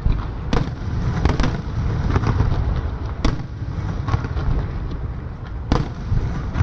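Fireworks display: about five sharp bangs of bursting shells, two of them close together early on, over a steady low rumble.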